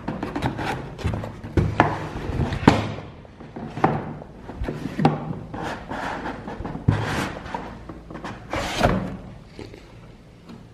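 Unpacking noises: irregular knocks and thunks with rubbing and rustling as the coffee grinder's box and packaging are handled and set down.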